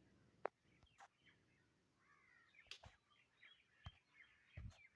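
Near silence, with faint birds chirping in the background from about two seconds in and a few soft clicks.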